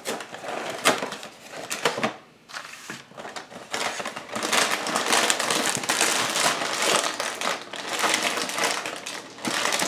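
A Corn Pops cereal box and its plastic inner bag being handled and wrestled open: irregular crinkling and crackling, busier from about four seconds in.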